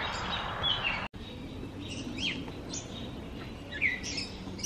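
Songbirds chirping, with short, quick notes that sweep in pitch, repeating every half second or so over a steady outdoor background hiss. About a second in, the background noise drops abruptly while the chirping goes on.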